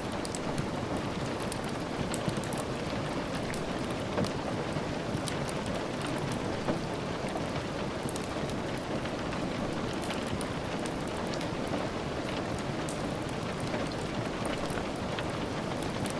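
Steady rain falling, an even hiss with many scattered small sharp ticks of drops striking a surface.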